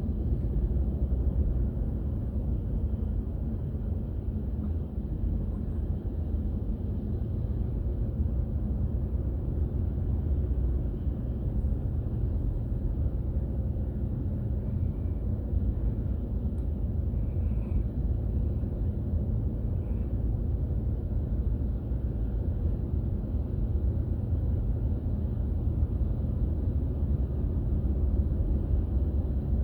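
Steady low rumble of a car being driven, with road and engine noise heard from the car.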